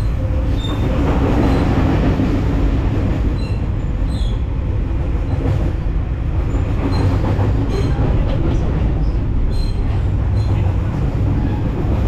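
Moving passenger train heard from inside the coach corridor: the steady rumble and rattle of the wheels running on the rails, with brief high metallic squeaks now and then.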